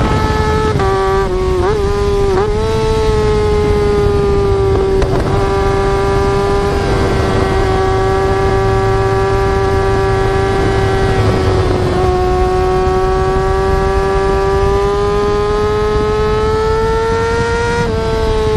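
Yamaha R6 inline-four sportbike engine running at high revs, a steady high-pitched wail. It gives a few brief dips and wobbles in pitch, as when the throttle is eased or a gear is changed.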